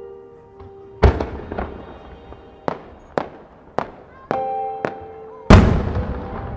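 Aerial fireworks shells going off in a string of sharp bangs, the loudest about five and a half seconds in, over background music with held notes.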